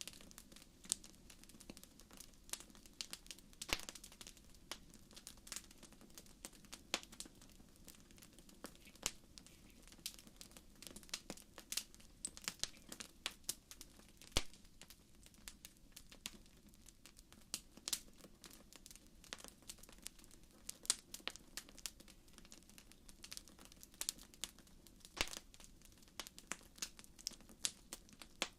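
Wood fire crackling in a fireplace: frequent irregular sharp pops and snaps over a faint low hiss of the flames.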